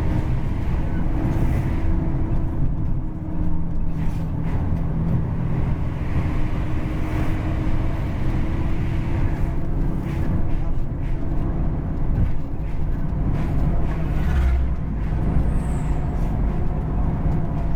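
Po Haryanto HR 02 double-decker bus on the move with its racing exhaust, a steady low engine and road drone with a few light knocks and rattles.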